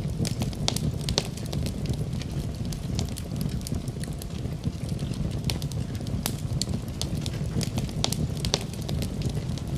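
Fire burning in a fireplace: a steady low rumble of flames with frequent sharp, irregular crackles and pops, several a second.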